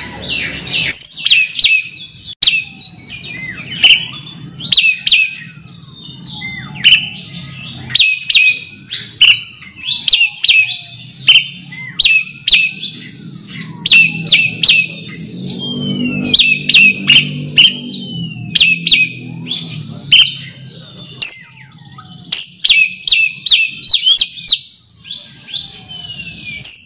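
Oriental magpie-robin (kacer) singing a fast, unbroken run of short whistled and chattering notes with a few sliding whistles mixed in: the challenge song used to call out a rival. A low rumble lies under the song through the middle.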